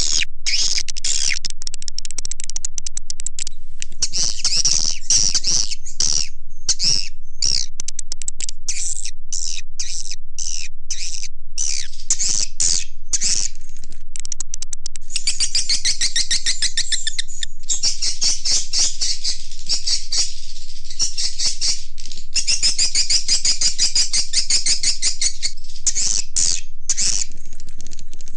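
Swiftlet lure call: a loud, continuous mass of rapid high twittering chirps and clicks from swiftlets (walet), played to draw the birds into a swiftlet house. About halfway through, the calls thicken into a denser, steady trilling.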